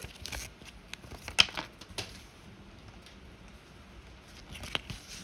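Paper inserts and a cardboard earbud box being handled: light rustling with a few sharp clicks and taps, the sharpest about a second and a half in.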